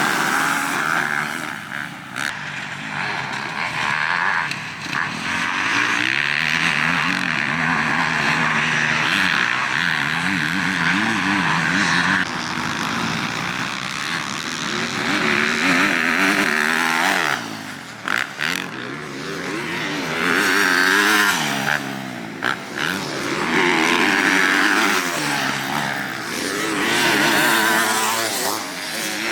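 Motocross dirt bike engines revving hard, the pitch climbing and dropping again and again as they shift and throttle on and off.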